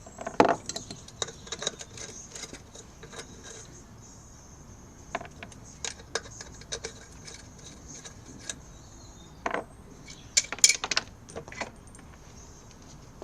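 Scattered metallic clinks and clicks of hand tools and nuts being worked on a Vespa scooter's wheel hub, busiest just after the start and again around ten seconds in.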